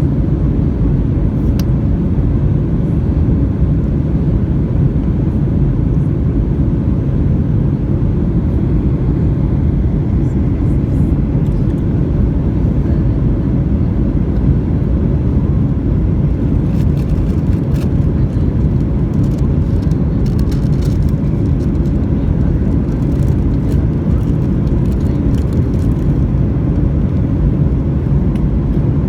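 Steady low rumble of a Boeing 737-800's engines and airflow, heard from inside the passenger cabin, with a few faint ticks in the latter half.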